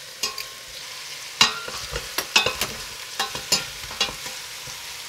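Chicken pieces sizzling in a stainless steel pot over medium heat, with repeated sharp clacks and scrapes of metal tongs against the pot as the pieces are turned. The chicken is browning so a browned crust forms on the pot's bottom.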